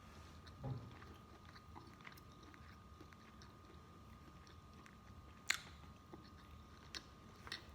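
Quiet chewing of fried chicken, with a few sharp crunchy clicks, the clearest about five and a half seconds in, over a faint steady hum.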